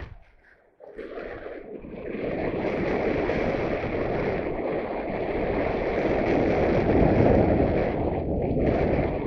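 Wind buffeting and rushing over the microphone, dying away for about half a second just after the start, then running steadily.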